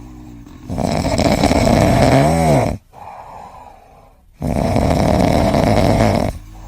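Loud snoring: two long, rough snores of about two seconds each, with a quieter breath between them.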